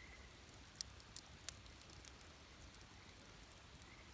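Wood campfire crackling faintly, with a few sharp pops from the burning wood.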